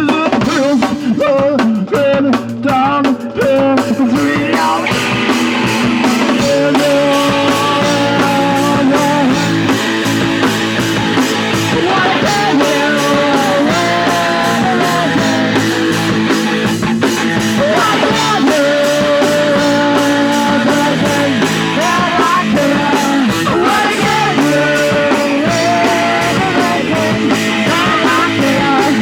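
Punk rock song: fast drums, electric guitar and a singing voice, with the drums most prominent in the first few seconds before the full band and vocals fill in.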